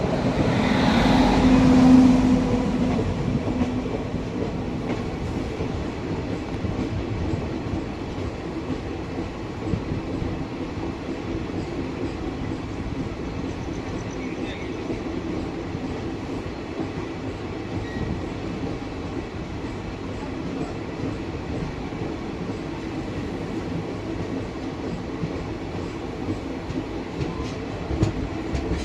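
Begampura Express train running steadily along the track, the wheels on the rails giving a continuous rumble with light clatter. A louder swell with a low steady tone in the first couple of seconds fades into the even running noise.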